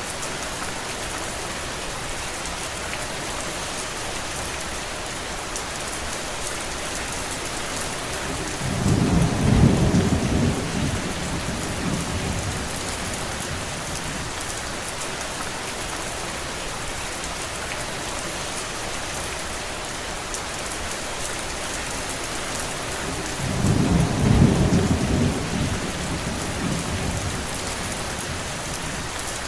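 Steady rain hissing, with two low rumbles of distant thunder lasting a few seconds each, about a third of the way in and again near the end.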